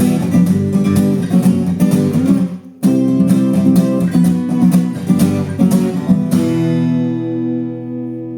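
Acoustic guitar strummed in a steady rhythm, breaking off briefly about two and a half seconds in, then resuming. About six and a half seconds in, a final chord is left ringing and slowly fading.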